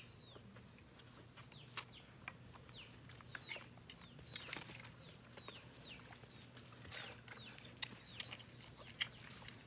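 Faint bird chirping, a short falling note repeated about twice a second, with a few soft clicks in between.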